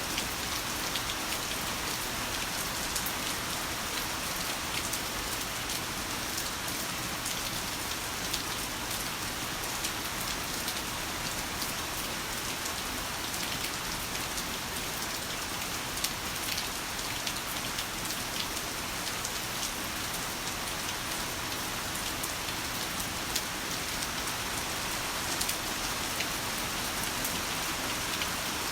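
Heavy rain falling steadily, an even hiss with many sharp close raindrop ticks scattered through it.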